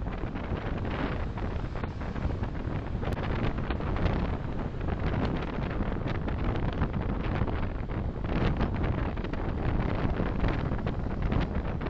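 Steady road and wind noise of a car on the move, picked up by a dashcam microphone, with a low rumble and a few brief swells.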